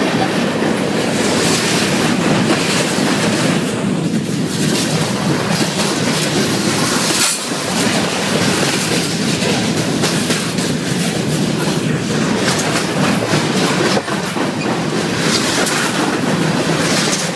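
Freight train passing at close range, its cars rolling by at speed: a steady noise of steel wheels on the rails with repeated clacks over the rail joints.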